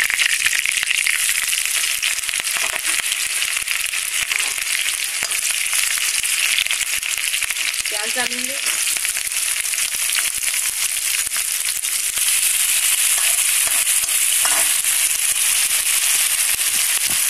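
Hot oil sizzling and crackling in a pan, with cumin seeds and curry leaves frying in it and, later, chopped green chillies and onion.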